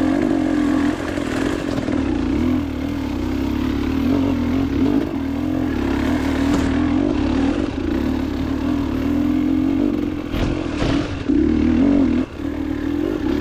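Motorcycle engine running steadily under way on a rough trail, with some clatter; it picks up briefly about eleven seconds in and drops back for a moment just after.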